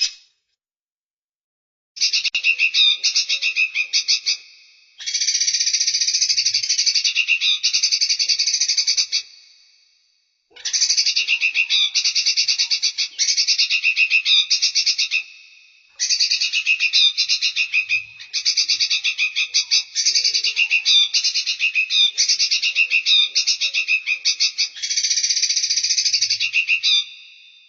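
Songbird giving high, rapid rattling trills in bouts of two to five seconds with short silent gaps, starting about two seconds in; the pieces are cut together as a looped training recording for caged birds.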